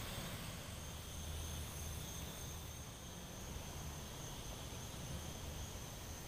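Insects trilling: a steady high-pitched drone over a low, even rumble.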